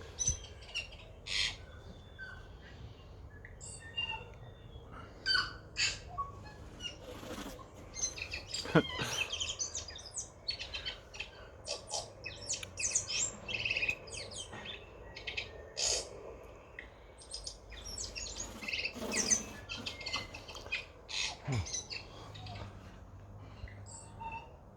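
Tui song: a string of short, high, bell-like notes and clicks with a few notes that slide down in pitch. The calls are territorial, answering a recorded tui call.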